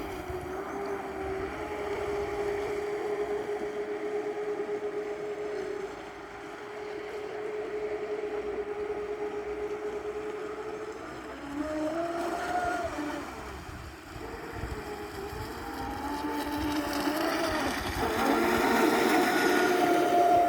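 Twin electric motors of a radio-controlled model boat whining, with a steady tone for the first half. The pitch then shifts up and down as the throttle changes, and the motors come back louder near the end.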